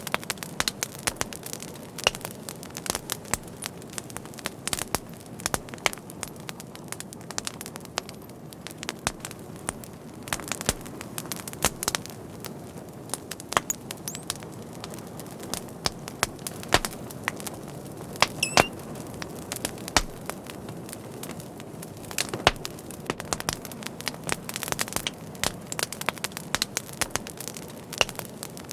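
Fire crackling steadily: many irregular sharp pops and snaps over a soft low hiss, with a brief thin high whistle about two thirds of the way through.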